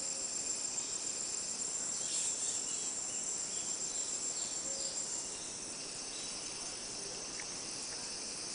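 Amazon rainforest insect chorus: a steady, high-pitched shrill drone, with a few short chirps over it in the first half.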